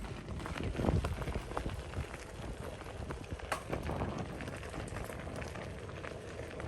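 Footsteps of a person walking: irregular light knocks over a steady rustling hiss.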